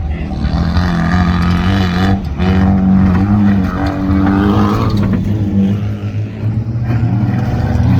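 Rallycross car engine revving hard, its pitch holding steady, dipping about six seconds in, then climbing again.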